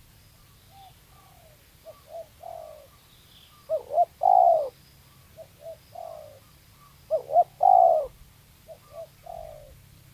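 Spotted doves cooing: a repeated phrase of two short coos and a longer falling coo, given about six times. Two of the phrases, about four and seven seconds in, are much louder than the others. Faint chirps from another small bird sound above them.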